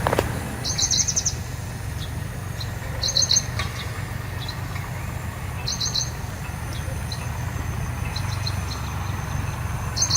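Small birds chirping in quick bursts of three to five high notes, one burst every two to three seconds. A steady low rumble runs underneath.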